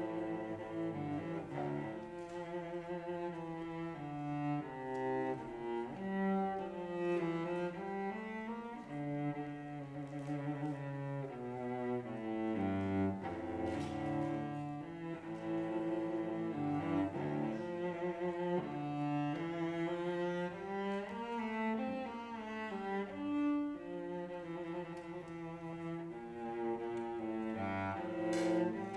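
Offertory music on bowed strings led by a cello, playing a slow line of held notes with other notes sounding beneath and above it.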